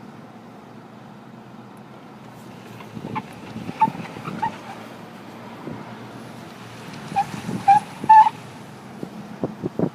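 Short pitched squeaks from a 2009 Cadillac Escalade AWD during a sharp low-speed turn: three about three to four seconds in, then three louder ones near the end, over a low steady hum. This is the unexplained noise the owner hears only when turning sharply at low speed.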